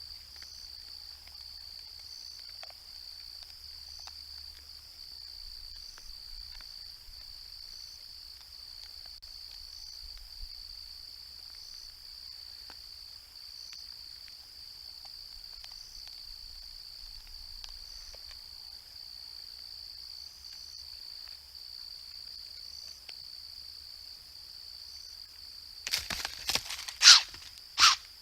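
A steady high-pitched drone of insects with a faint regular pulse. Near the end it is broken by a quick run of loud, sudden, harsh noises lasting about three seconds, loud enough to startle a deer; the uploader guesses a raccoon made them.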